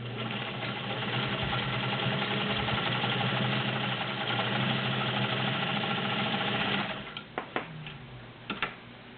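All-metal White model 530 sewing machine with its 1.3 amp motor, stitching at a steady, even speed for about seven seconds, then stopping suddenly. A few light clicks follow near the end.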